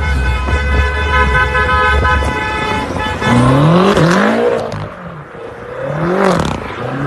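A car horn held steadily for about three seconds over a low engine rumble. Then a car engine revs up and down several times.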